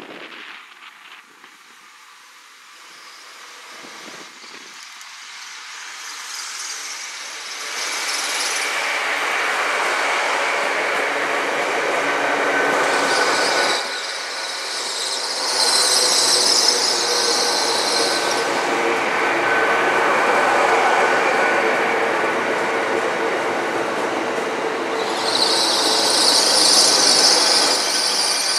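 Hitachi Class 800 'Azuma' train in diesel mode approaching and running past close by, growing louder over the first eight seconds or so into a steady rumble. High-pitched wheel squeal comes and goes three times as the carriages pass.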